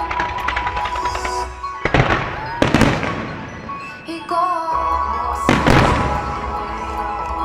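Fireworks bursting over a pop song with a sung vocal played through loudspeakers: loud booms about 2 seconds in, again just before 3 seconds, and about 5.5 seconds in, each followed by a rolling echo.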